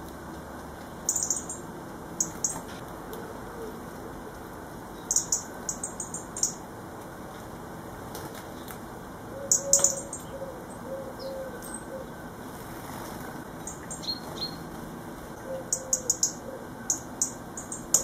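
Small garden birds at a seed-laden bird table: clusters of short, very high chirps, a few seconds apart, with the loudest cluster about ten seconds in.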